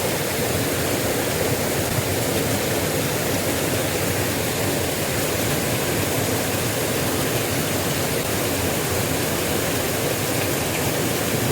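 Small river's water rushing steadily.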